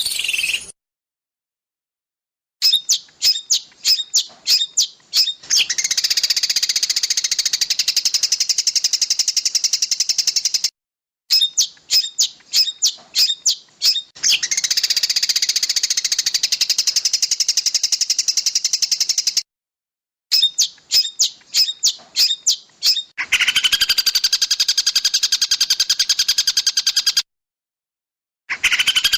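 Recorded songbird song of the masteran kind: a run of sharp, rapid chirps at about five a second leading into a long, fast buzzing trill. The phrase repeats three times, cut apart by short gaps of dead silence, and the last trill is pitched lower.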